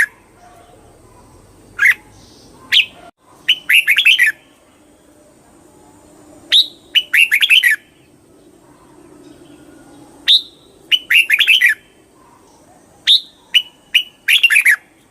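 Red-whiskered bulbul singing: short phrases of quick, falling whistled notes, repeated every couple of seconds.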